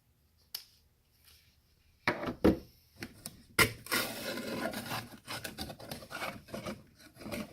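Hand tools knocking against a piece of scrap being taken apart: a few sharp knocks, then several seconds of grating and scraping as a stuck fastener is worked and turned loose.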